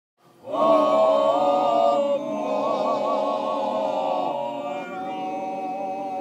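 Several voices singing long held notes together, a chant-like a cappella chord with a slightly wavering top voice, starting about half a second in.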